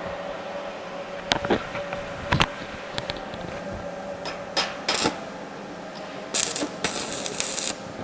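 Welding work: sharp metallic clinks and knocks, then a harsh crackling burst of about a second and a half near the end, over a steady hum.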